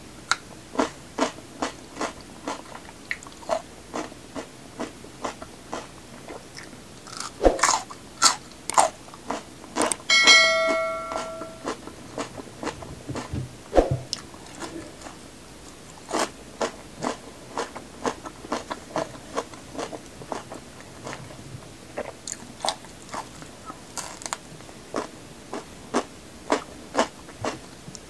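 Close-up crunching and chewing of raw vegetables such as red bell pepper, crisp bites and chews coming about once a second. About ten seconds in comes a short ringing clink that fades over a second or so.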